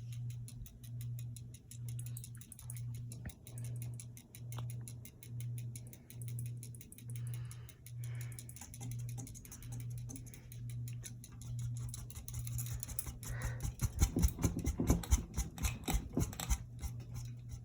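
Hampton Bay Landmark III Plus ceiling fan running on low: a motor hum that swells and fades about once every 0.7 seconds, with a fast, faint ticking. From about two-thirds of the way through, louder irregular low thumps and rumble come in.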